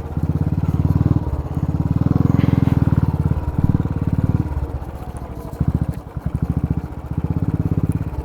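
Scooter engine running under load, its exhaust pulsing rapidly. It eases off about halfway through and picks up again near the end.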